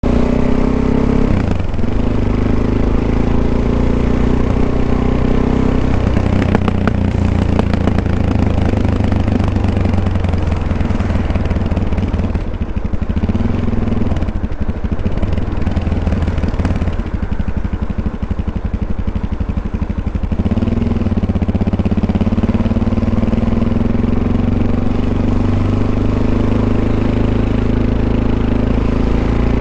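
Suzuki DR-Z400 motorcycle's single-cylinder four-stroke engine running. It holds a steady note near the start and the end; in the middle stretch the note shifts and breaks up.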